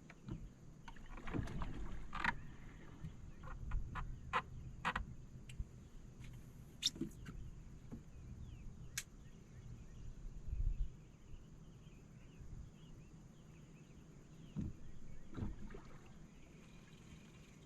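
Handling noises aboard a small fishing boat: scattered sharp clicks and knocks over a low rumble that drops away about eleven seconds in, with two duller thumps near the end.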